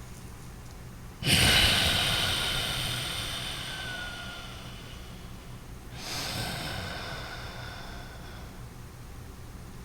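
Two loud breaths through the nose as a relaxation breathing exercise: a strong one starting about a second in that fades away over a few seconds, then a softer one near the middle.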